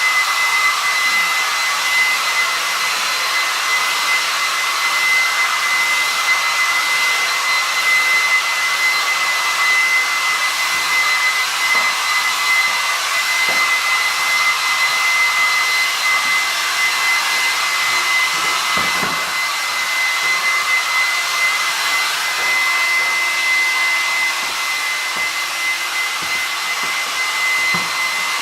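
Electric hair dryer running steadily, a whooshing hiss with a high steady whine.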